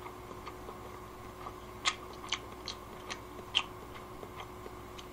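A person quietly chewing food, with a handful of soft mouth clicks in the second half, over a faint steady hum.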